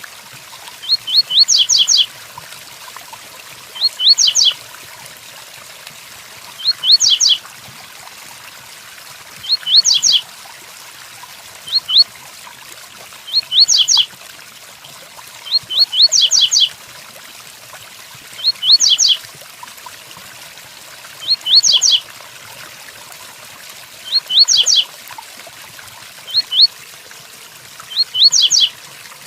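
A double-collared seedeater (coleiro) sings the 'tui-tuí' song, a short phrase of quick, high rising notes repeated about every two and a half seconds. Under it runs a steady hiss of rain.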